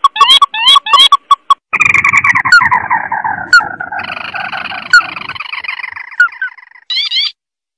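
Call of a red-eyed crake (tikusan mata merah) played as a bird lure. A fast run of short rising notes leads into a long chattering trill that falls in pitch over about five seconds, and it ends in a few more rising notes near the end.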